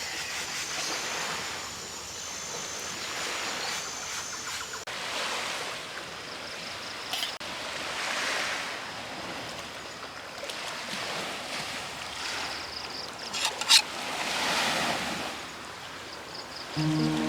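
Small sea waves washing onto the shore in slow swells every few seconds. A high, repeating chirp sounds in the first few seconds, and a sharp snap, the loudest sound, comes near the end.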